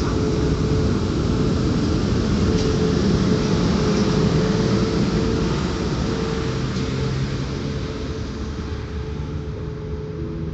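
Passenger train behind a PKP Intercity EP09 electric locomotive, with České dráhy sleeping and passenger coaches, rolling along the platform: steady rumble of wheels on rail with a faint steady hum, growing a little quieter over the last few seconds as the coaches go by.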